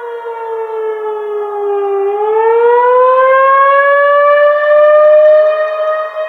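A siren wailing: its pitch sinks for about two seconds, then climbs slowly and holds, loud and steady.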